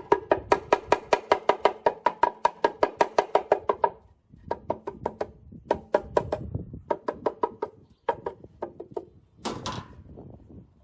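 Rapid repeated strikes, about seven a second, each with a clear ringing pitch, in runs broken by short pauses, ending with a longer, noisier sound near the end.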